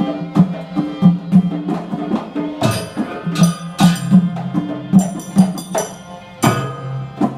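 Live Gandrung music from a Banyuwangi ensemble, driven by drums in a steady beat of about two to three strokes a second, with loud ringing strikes a few times over it.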